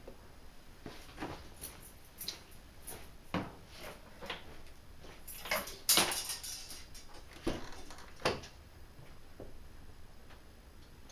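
Scattered clicks and knocks of handling, with the loudest thump about six seconds in and another near eight seconds.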